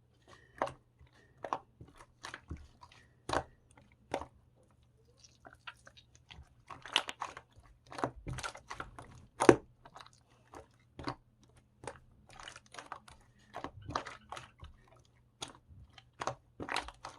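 Irregular crisp crunching sounds, one or two a second, with a louder crunch about nine and a half seconds in, over a faint steady hum.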